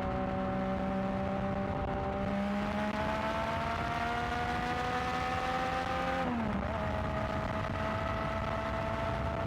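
Yamaha XSR900's inline-three engine running through a new aftermarket exhaust while riding. It pulls steadily with its pitch slowly rising, dips sharply about six seconds in, then settles a little lower and holds steady, over a constant low rush of wind and road noise.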